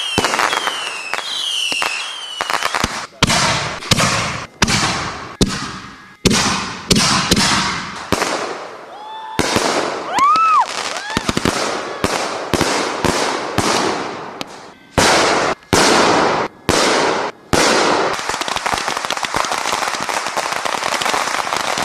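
Fireworks going off: a rapid run of sharp bangs and crackling, with a whistle that rises and falls about halfway through. The sound cuts off abruptly several times near the end.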